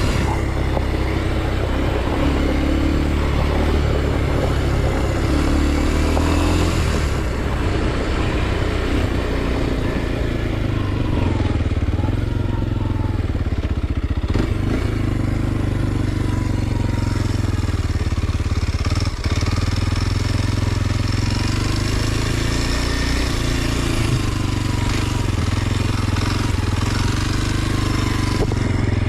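2023 Kawasaki KLX 230 SM's single-cylinder four-stroke engine running continuously while ridden, its revs rising and falling gently.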